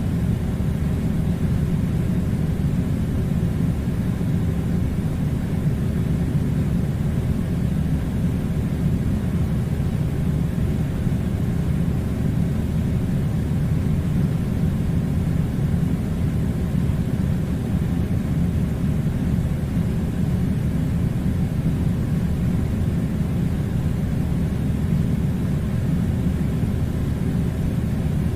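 Air conditioner running: a steady, unchanging low rumble with a hiss of air over it.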